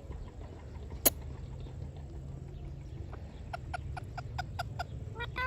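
A sharp click about a second in, then a parrot's quick run of about seven short clucking notes, some five a second, ending in a rising call. A low steady hum runs underneath.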